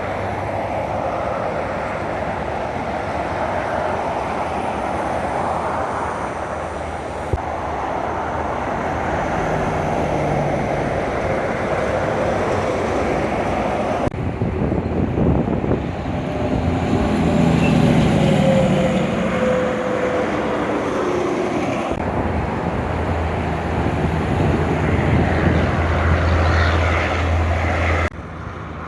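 Road traffic with heavy trucks going by: engine drone and tyre rumble, one truck's engine note sweeping as it passes partway through. The sound changes abruptly several times where short clips are cut together.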